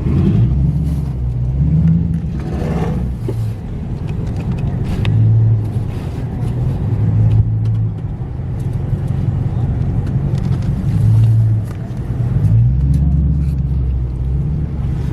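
Car engine running at low revs while the car is eased into a parking spot, its drone shifting up and down in pitch as the throttle is worked, with a rise near the end.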